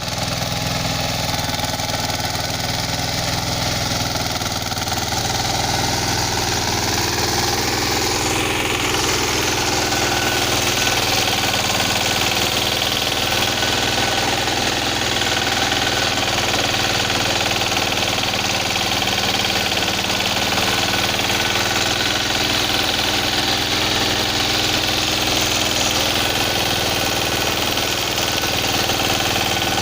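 Engine of a Sayyad Tractors mini tractor running steadily.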